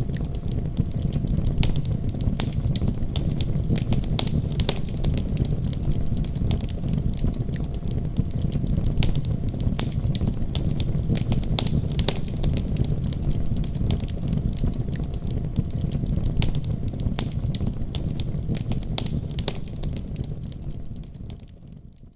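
Wood fire burning in a fireplace: a steady low rumble of flames with frequent sharp crackles and pops. The sound fades out near the end.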